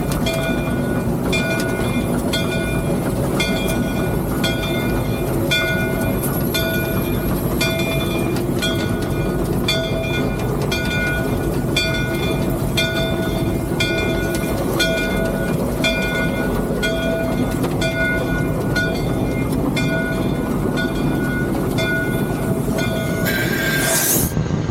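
Three-truck Shay geared steam locomotive running, heard from inside its cab: a steady rumble with ringing metallic tones that pulse about twice a second, breaking off about a second before the end.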